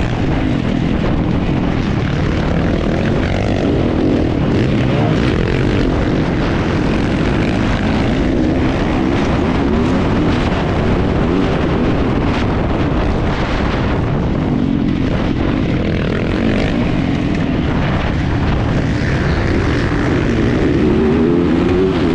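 Yamaha YZ450F's single-cylinder four-stroke engine running hard, its pitch rising and falling over and over as the throttle opens and closes, with noise from the wind and the dirt track mixed in.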